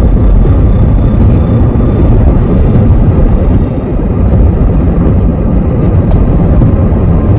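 Steady low rumble of a car driving on a snowy road: engine and tyre noise heard from inside the cabin.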